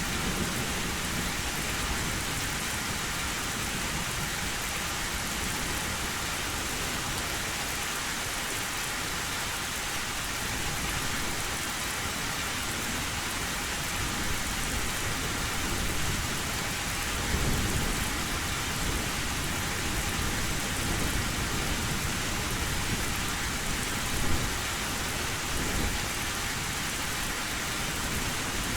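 Heavy rain falling steadily on an old metal roof, with thunder rumbling low a couple of times in the second half.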